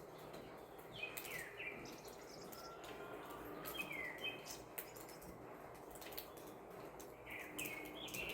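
Birds giving short, falling chirps a few times over a steady hiss of rain, with scattered sharp drip ticks.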